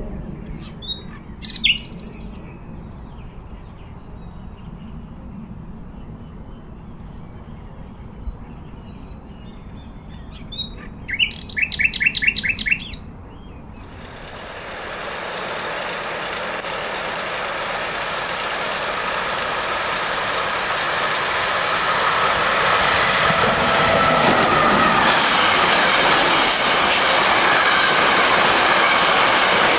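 A bird gives a short chirp, then a quick run of repeated high notes. About halfway through this gives way to the rushing noise of a train running nearby, with a high hiss, growing steadily louder.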